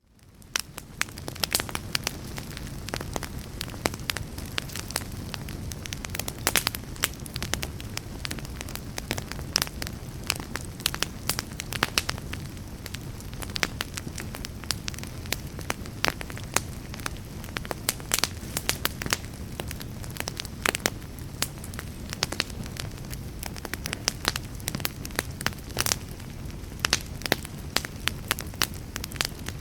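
Wood fire crackling, with many sharp, irregular pops and snaps over a steady low rumble. It fades up from near silence in the first second.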